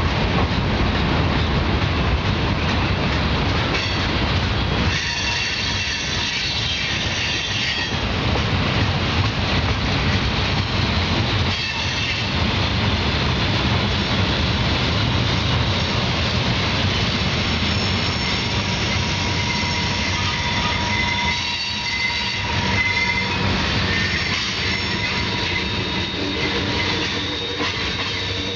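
Union Pacific mixed freight train's cars rolling past on a downgrade: a steady rumble of wheels on rail, with high-pitched wheel squeal coming and going, a few seconds in and again through the second half.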